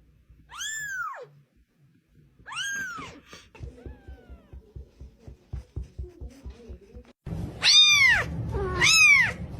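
Cat meowing: two separate meows, each rising then falling in pitch, then a soft, quick rhythmic sound at about five beats a second, then louder meows about once a second near the end.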